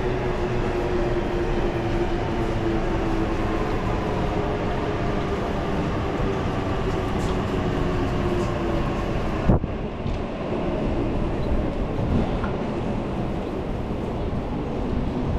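Electric train running, a steady rumble with a hum that sinks slowly in pitch, as of a train slowing. A single sharp click comes about nine and a half seconds in, after which the hum fades and the sound is duller.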